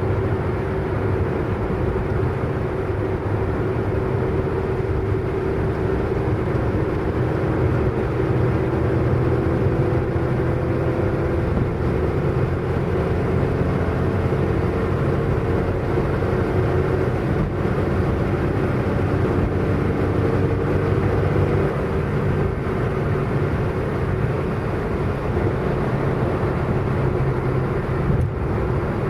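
Car driving at a steady speed: a continuous low engine drone over tyre and road noise, its pitch shifting slightly now and then.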